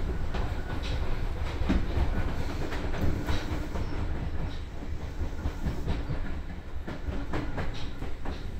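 Interior running sound of a Seibu 2000 series electric commuter train: a steady low rumble from the wheels and body, with irregular clicks as the wheels cross rail joints.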